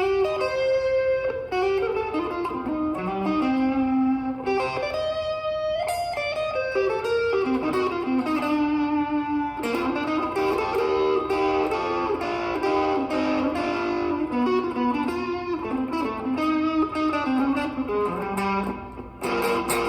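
Electric guitar playing a fast, busy single-note jazz-rock riff, one guitar alone without drums.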